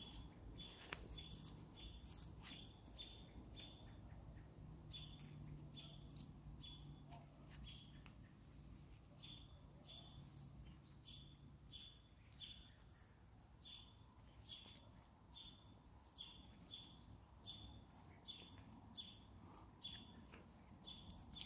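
Faint short bird chirps, repeated one or two a second with a few brief pauses.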